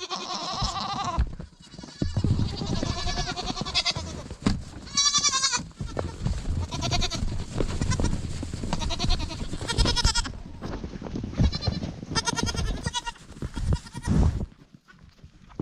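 Dairy goats bleating over and over, one wavering call after another.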